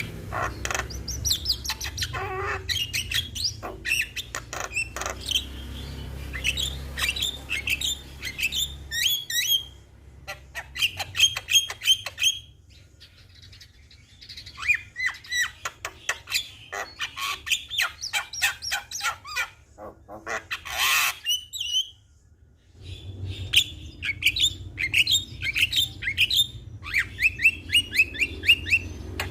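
Javan myna singing: long runs of rapid, repeated chattering notes and short falling whistles, with brief pauses about twelve seconds in and again past twenty seconds. A low steady hum lies under the song at the start and near the end.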